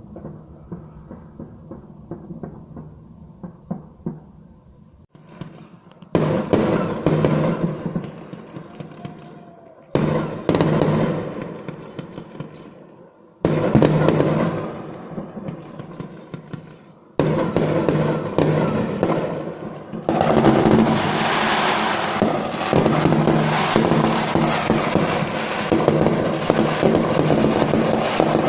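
Fireworks crackling and banging. They are sparse at first, then come in loud, dense volleys from about six seconds in, almost without a break over the last several seconds.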